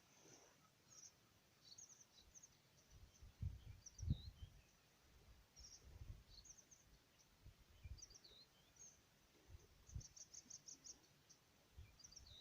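Faint, scattered high chirps from small birds, including a quick run of about eight chirps around ten seconds in, over soft, irregular low thumps.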